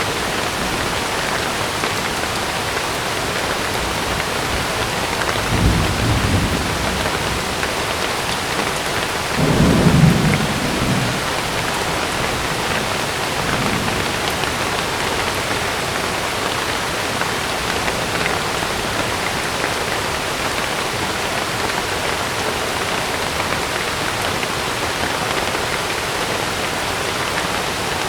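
Heavy rain drumming steadily on a camping tent, with thunder rumbling twice: once about five seconds in and louder about ten seconds in.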